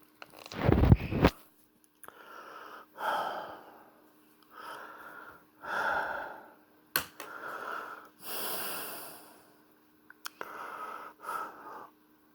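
A person breathing heavily and wheezily close to the microphone, in a series of drawn-out breaths, after a loud thump about a second in. Two sharp clicks come partway through, and a faint steady hum runs underneath.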